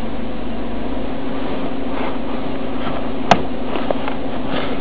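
Car engine idling steadily, heard from the driver's footwell, with one sharp click a little over three seconds in.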